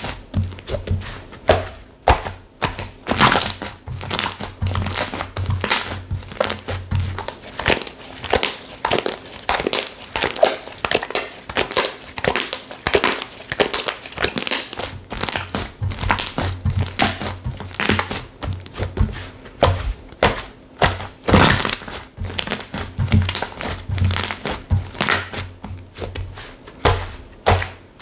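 Slime being squeezed, pressed and stretched by hand, giving a dense run of small crackles, pops and squishes.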